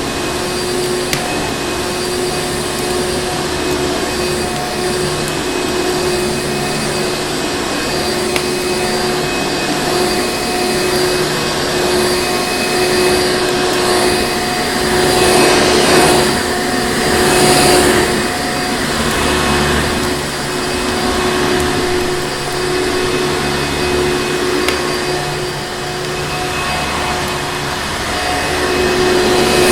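Vacuum cleaner running steadily: a constant motor whine over rushing air, which swells louder twice around the middle.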